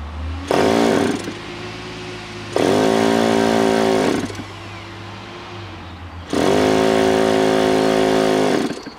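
OS .46AX two-stroke nitro glow engine of an RC airplane running at idle and revved up three times, rising sharply to high revs, holding there for one to two seconds and dropping back to idle each time. The engine is still a little temperamental after years of storage.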